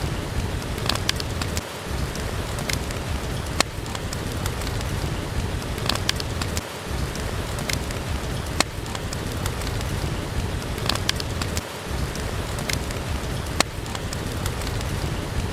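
Steady rain with sharp pops and crackles of a wood fire in a fireplace scattered through it. The low rumble of the rain drops out briefly about every five seconds.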